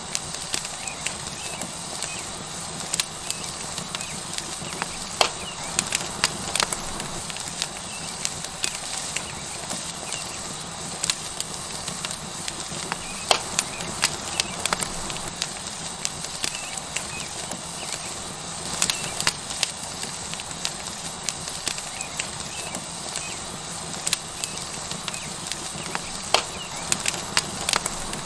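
Tomahawk steak sizzling on a hot rock over a wood fire, with the fire crackling: a steady hiss broken by frequent sharp pops.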